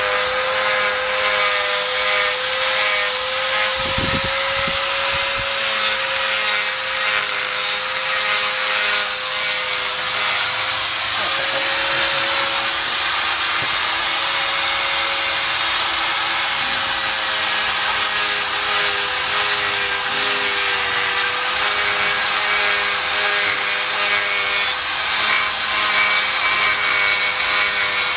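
Electric power tool running steadily under load, its motor tone wavering slightly in pitch over a hiss of abrasion.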